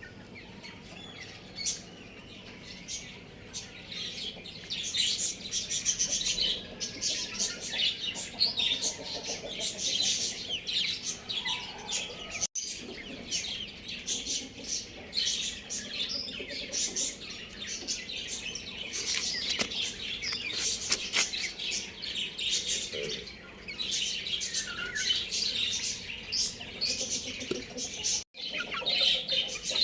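Many small birds chirping together: a dense, busy chorus of short, high calls, broken briefly twice by abrupt cuts.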